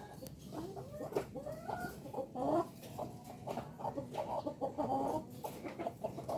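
Several village chickens (ayam kampung) clucking and calling over one another in short overlapping calls, with a few sharp clicks among them.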